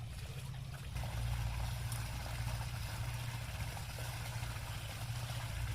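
8 hp diesel engine pump set running steadily, a constant low hum, with water rushing and splashing from the irrigation pipe over it.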